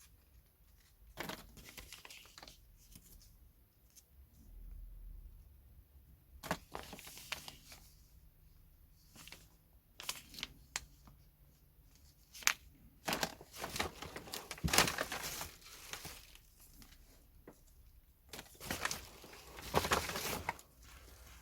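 Hands handling small engine parts and packaging: scattered clicks and taps with bursts of crinkly rustling, busiest in the second half.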